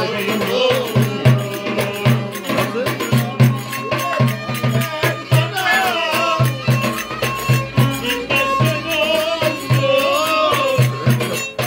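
Turkish folk dance music: a steady low drumbeat of about two to three strokes a second under a wavering, ornamented melody line.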